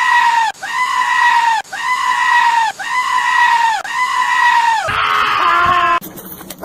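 A goat screaming: five high, steady-pitched cries of about a second each in quick succession, each rising at the start and dropping at the end. A rougher, lower bleat follows about five seconds in.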